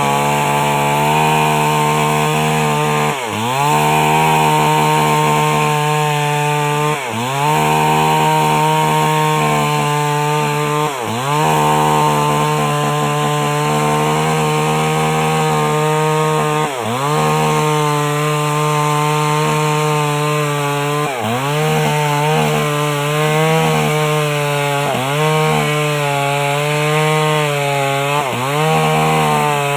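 Old Stihl two-stroke chainsaw running at high revs while ripping a coconut palm trunk lengthwise. About every four seconds its pitch dips sharply and recovers.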